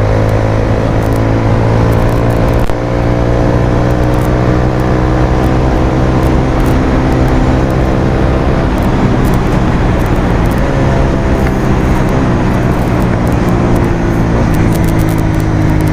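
Bajaj Pulsar's single-cylinder engine running through an aftermarket Akrapovic exhaust under way, recorded from the rider's seat with wind and road noise. The engine note sinks slowly, steps back up about halfway through, then sinks again.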